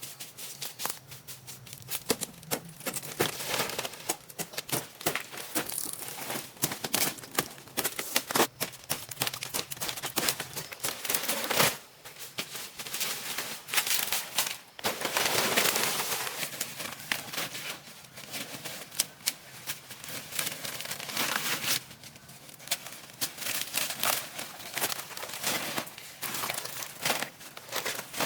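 Rapid, irregular clicking and crackling mixed with rustling, with a brief lull about twelve seconds in.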